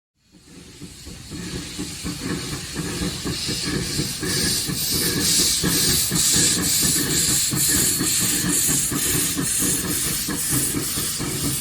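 Narrow-gauge steam locomotive working, its exhaust chuffing in a steady rhythm over hissing steam, growing louder over the first few seconds.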